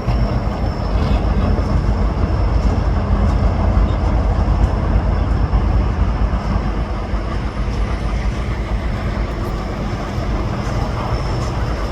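EMD SD38 and SD35 diesel locomotives running together as the freight train pulls out, a steady low engine drone.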